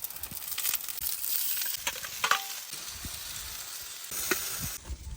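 Food sizzling as it fries in a pan over a campfire, with a utensil stirring and knocking against the pan now and then.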